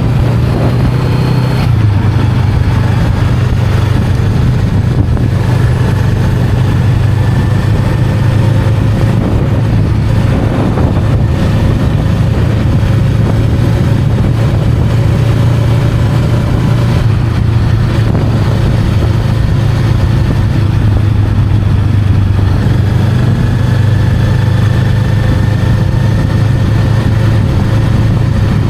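Honda Rebel 500's parallel-twin engine running steadily under way, its low note holding an even pitch throughout.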